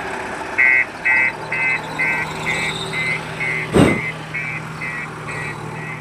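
A vehicle's reversing alarm beeping about twice a second over a steadily running engine, with one loud thump just under four seconds in.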